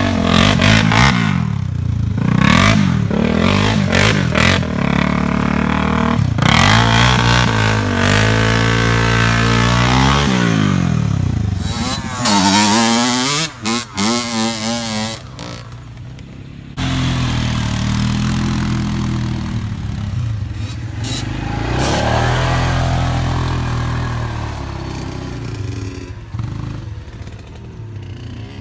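Off-road ATV engine revving up and down while riding, its pitch rising and falling again and again, with a couple of short dips in level just past the middle.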